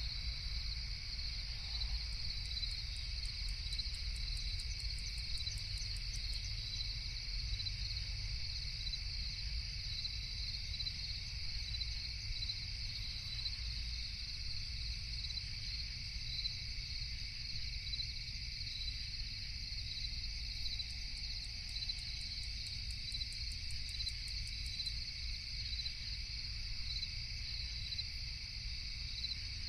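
Crickets chirping steadily in a night insect chorus over a low, steady rumble. Twice, for a few seconds each, a faster, higher ticking trill from another insect joins in.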